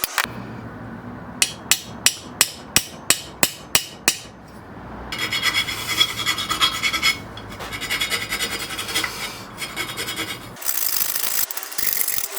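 Workshop hand-tool noise: about nine sharp, evenly spaced taps, then several stretches of rasping, scraping work.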